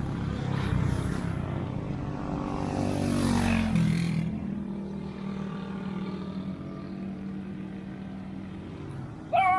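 A motor vehicle passes on the road, its engine pitch dropping as it goes by about three to four seconds in. Near the end a dog gives a loud, wavering whine.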